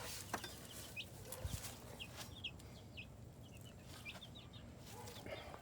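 Chickens calling with many short, high peeps and clucks scattered through, faint, with a few light knocks.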